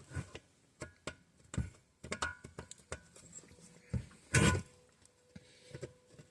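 Metal engine parts and tools being handled on a workbench: scattered light clicks and taps, with one louder clunk a little after four seconds in.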